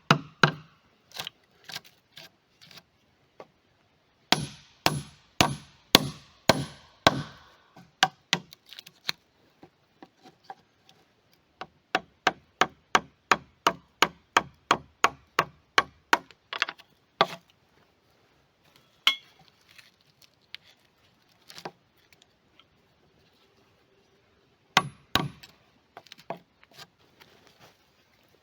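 Repeated blows of a hand tool on wood: a few heavier strikes about every half second, then a quick run of lighter strikes about four a second, with scattered blows between and near the end.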